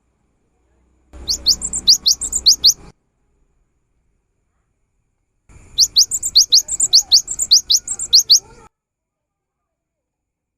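Cinereous tit (gelatik batu) singing in two bouts, about a second in and again past the middle, each a fast run of sharp, rising high notes lasting two to three seconds.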